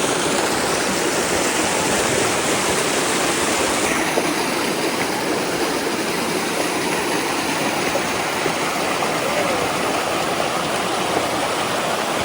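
Steady rushing of creek water pouring through the cascades and pools of a small rock-walled creek.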